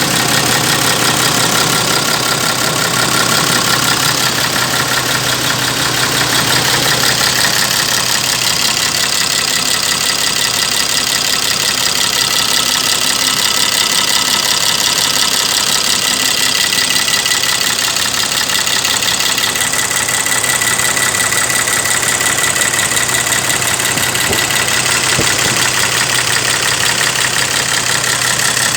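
Iveco 420 hp diesel engine in a CAMC truck, idling steadily.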